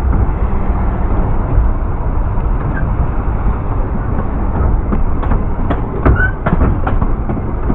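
Welsh Highland Railway narrow-gauge train running along the track: a steady rumble, with a run of sharp clicks from the wheels about two-thirds of the way through.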